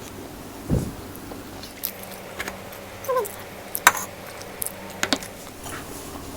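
Close-up mukbang eating sounds: a person biting and chewing a mouthful of squid sisig and laing with dried anchovies. There is a low thump just under a second in, and several sharp clicks, the loudest about four seconds in.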